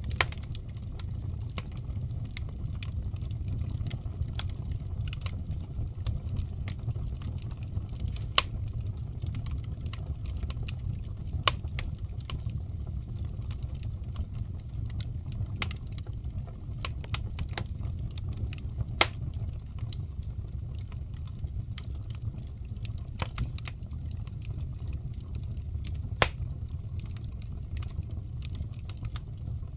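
Wood fire burning in a fireplace: a steady low rumble of flames with scattered sharp crackles and pops, the loudest about 8, 11, 19 and 26 seconds in.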